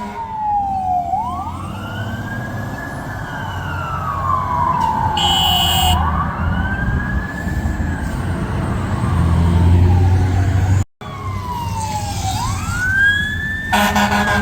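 Fire truck sirens wailing, each sweep rising and falling over about two and a half seconds, over a low diesel engine rumble. There is a short high-pitched horn blast about five seconds in. The sound drops out for a moment near eleven seconds, and a loud air horn starts near the end.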